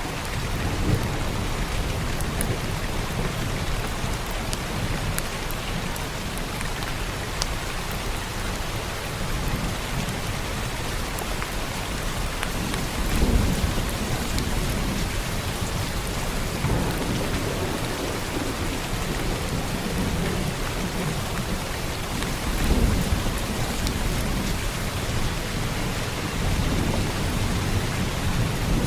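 Heavy rain falling steadily, with low rumbles of thunder swelling up about halfway through and again about three quarters of the way in.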